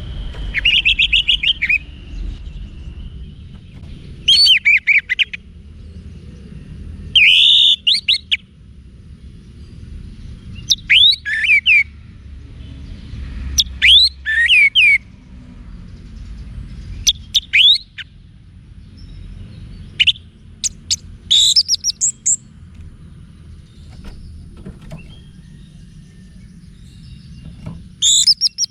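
Orange-headed thrush singing: short bursts of quick, high whistled notes, repeated every two to three seconds, over a steady low rumble.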